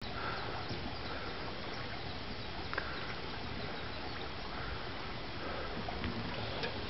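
Birds chirping faintly every second or so over a steady low rumble, with a single sharp click nearly three seconds in.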